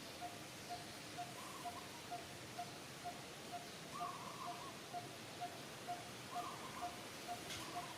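Outdoor ambience with a steady train of short, evenly spaced pips, about two a second, and a longer, higher call every two to three seconds. One sharp click near the end.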